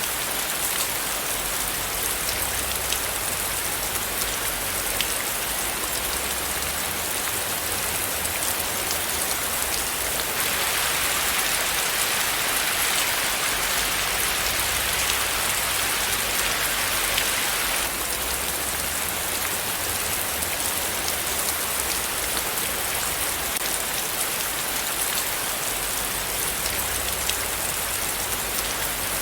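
Steady rain falling, with many separate drop hits. It gets heavier and louder for about eight seconds around the middle, then settles back.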